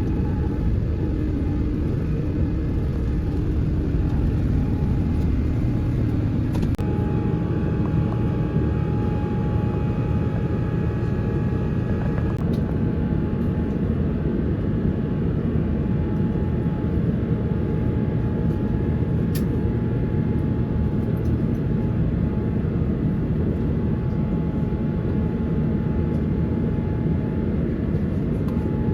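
Steady low rumble of an Airbus A350's engines and airflow heard inside the cabin during takeoff and climb, with a faint steady whine joining about seven seconds in and a few light clicks.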